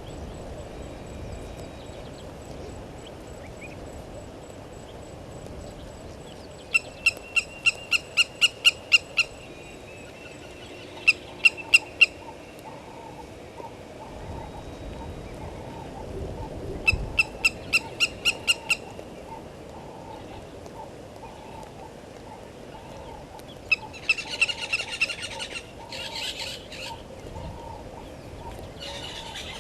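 A bird calling in four bouts of rapid, evenly spaced piping notes, about four or five a second, each bout lasting two to three seconds. Between the bouts there is a faint, steady outdoor background.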